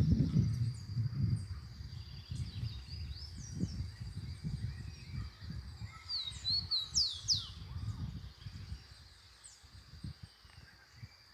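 Wild birds chirping and calling, with a quick run of sweeping notes about halfway through, over a faint steady high whine. Irregular low rumbling noise sits underneath, loudest at the start.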